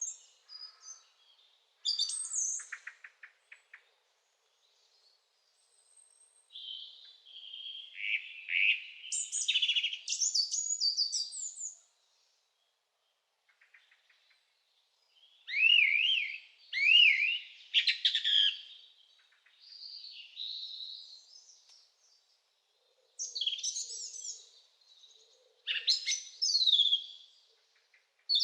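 Small birds chirping and singing in bursts of quick, high trills and sliding notes, with stretches of complete silence between the bursts.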